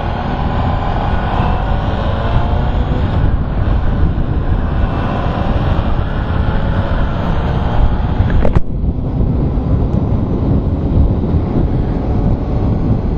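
Kawasaki ZX-10R sport bike's inline-four running on the road under heavy wind rush on a helmet-mounted microphone, its engine note rising and falling in the first few seconds. A sharp click sounds about eight and a half seconds in.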